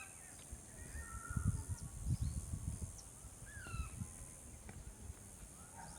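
Short, falling bird chirps come now and then, over low rumbling bumps that are the loudest sound, most of them in the middle of the stretch. A steady high hiss runs underneath.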